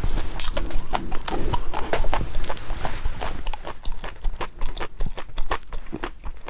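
Close-miked chewing of soft, sticky food, with rapid wet mouth clicks and smacks several times a second.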